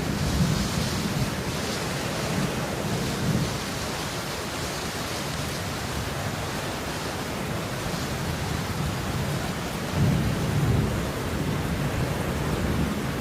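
Steady rain falling, an even hiss, with low rumbles swelling up twice: near the start and again about ten seconds in.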